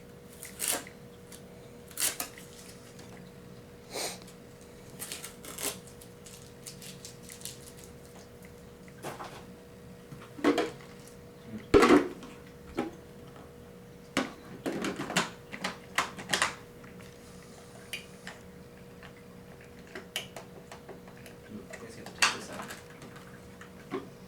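Irregular plastic clicks, knocks and short rustles from handling and fitting the plastic parts of a Hoover FloorMate hard-floor cleaner, with one louder knock about twelve seconds in. A faint steady hum runs underneath.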